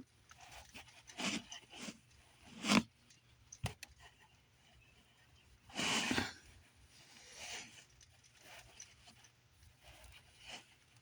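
Scattered handling noises: rustling and crinkling with a few knocks, the loudest a short rustling burst about six seconds in, as a towel and box are arranged to cover the egg.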